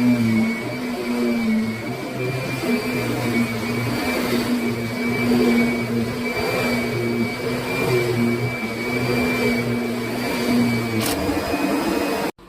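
Kirby Sentria upright vacuum running steadily, with a motor hum and a high whine; the low hum swells and eases every second or so. It cuts off abruptly near the end.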